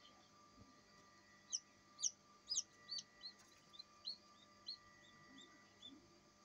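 Newly hatched Australorp chicks peeping: about a dozen short, high calls, the first few loudest and sliding down in pitch, then softer ones, over a faint steady hum of the incubator.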